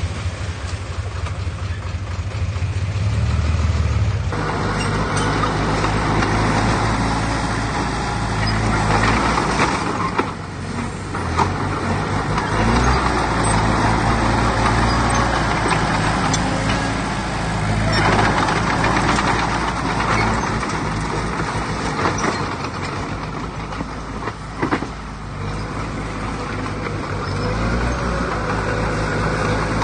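Diesel engines of heavy earthmoving machinery running, the engine note shifting with load; it grows louder and busier about four seconds in and dips briefly twice.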